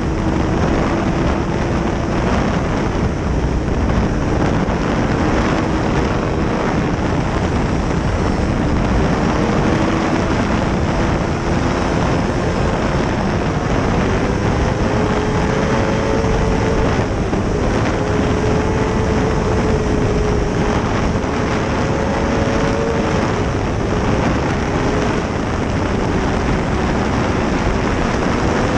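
Honda CBR600RR's inline-four engine at racing speed, its note climbing, dropping and climbing again as the rider works the throttle and gears, under heavy wind rush on the microphone.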